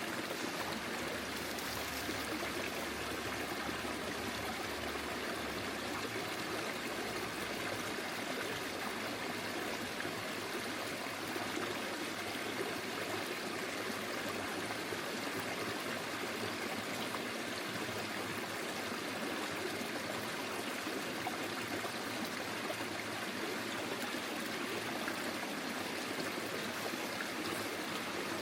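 Forest stream flowing, a steady rush of running water with a light trickle.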